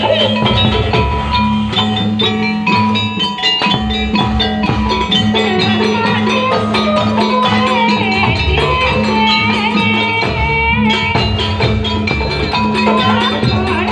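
Live jaranan music: a Javanese percussion ensemble of drums and gongs keeping a steady beat under a wavering, ornamented melody line.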